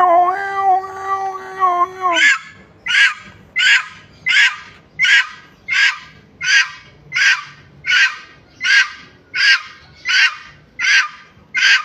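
A bird calling: one drawn-out, evenly pitched note for about two seconds, then a steady run of about fifteen short, sharp calls, a little over one and a half a second.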